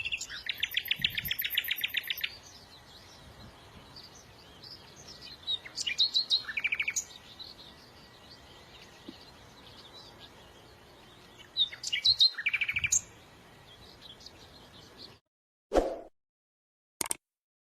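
Songbirds singing: a fast, even trill for about two seconds, then two shorter bouts of chirps and trills. The outdoor sound cuts off suddenly about fifteen seconds in, leaving silence broken by a couple of brief clicks.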